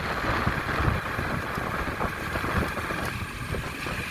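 Motorcycle riding along a road: the Hero Splendor Plus's small single-cylinder four-stroke engine running steadily under wind and road noise.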